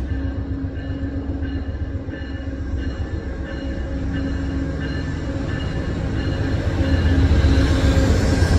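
Passenger train running: a steady low rumble with several steady tones that cut in and out, growing louder about seven seconds in.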